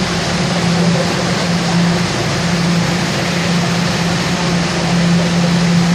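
Toronto subway train running through the tunnel after pulling out of a station: a steady, loud rumble of wheels and rails with a constant low motor hum.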